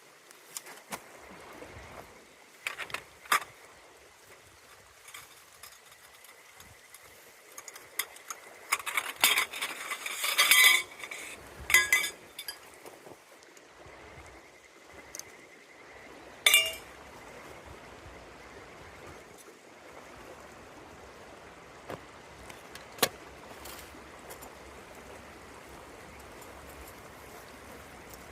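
Metal camp cookware clinking and knocking as it is handled: scattered light clinks, a busy run of them midway, and one ringing metallic strike a little later. A steady hiss of running river water sits underneath.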